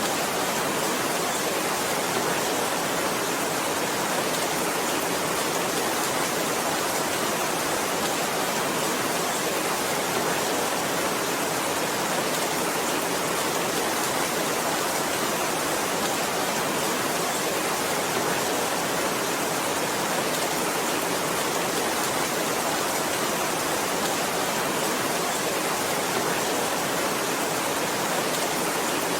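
Heavy rain, a steady, even hiss with no single drops standing out and no change in level.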